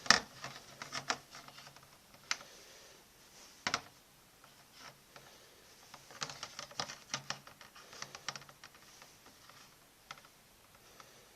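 Scattered light clicks and clacks of small hard plastic and metal parts being handled, some in quick runs: Beyblade tops and ripcord launchers being picked up and set down.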